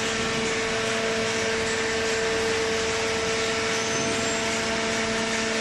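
Commercial cardboard baler's hydraulic power unit running: a steady machine hum with a constant low tone.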